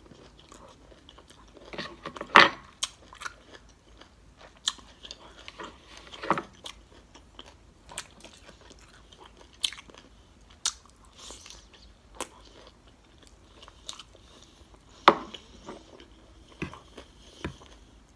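Close-miked chewing and biting of battered orange shrimp in sauce: irregular sharp crunches and mouth clicks, the loudest about two seconds in and again about fifteen seconds in.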